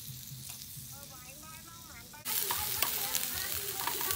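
Food frying in a hot pan, sizzling and crackling. A little past halfway the sizzle jumps suddenly louder, full of sharp popping.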